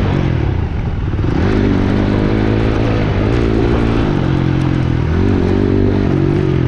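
Dirt bike engine running under changing throttle: the engine note dips about half a second in and climbs back up, then drops and rises again later on.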